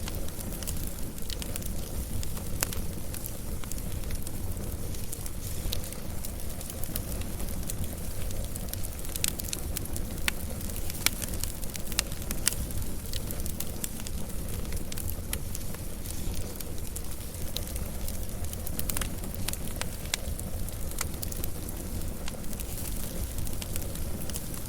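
Wood fire burning steadily with a low rumble and frequent sharp crackles and pops scattered throughout.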